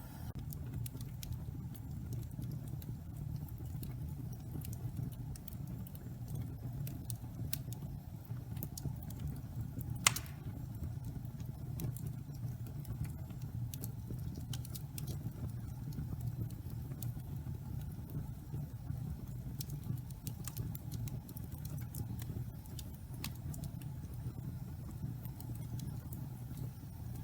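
Pine logs burning in a fireplace, crackling with scattered small snaps over a steady low rumble of the fire. One loud sharp pop about ten seconds in.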